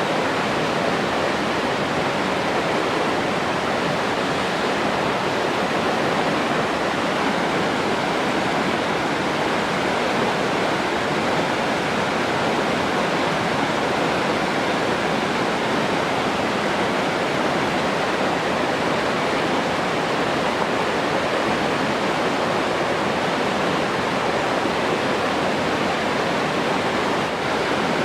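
Rushing water, a steady even hiss with no breaks or changes.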